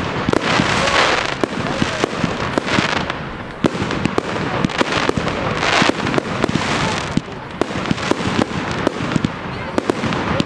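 Large fireworks display: a dense run of sharp bangs from bursting aerial shells, with several surges of hissing crackle from the effects.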